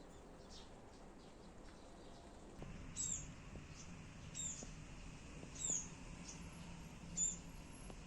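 Four short, high-pitched chirps from a small animal, each falling in pitch, about a second and a half apart over a faint steady background.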